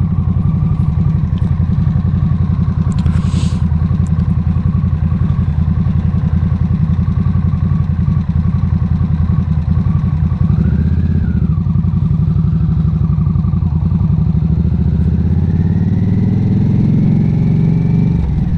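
Harley-Davidson V-twin motorcycle engine running steadily under the rider, with a low pulsing rumble; the engine note climbs over the last few seconds as it speeds up.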